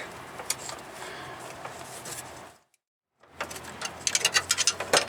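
Quiet scraping and handling noise that drops to dead silence for a moment about two and a half seconds in, then a quick run of small sharp metal clicks and knocks from hand tools and fittings being handled.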